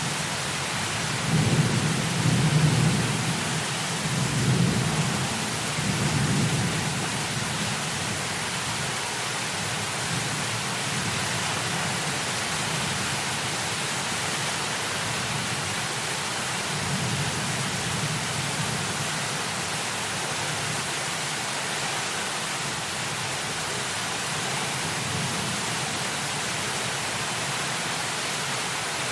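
Heavy, steady rain hissing, with thunder rolling and rumbling low for several seconds near the start and again more faintly midway.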